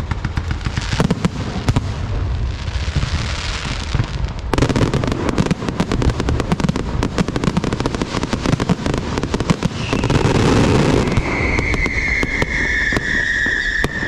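Dense, rapid crackling and popping over a low rumble, growing denser about a third of the way in; near the end a high whistling tone joins, sliding slightly down in pitch.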